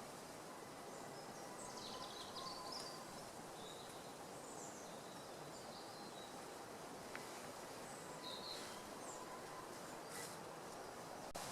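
Faint woodland ambience: a steady hiss with scattered short bird chirps and an occasional light click.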